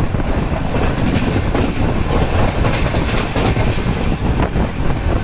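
A train running past close by: a steady, loud rumble of wheels on the rails, with a few clicks from the rail joints.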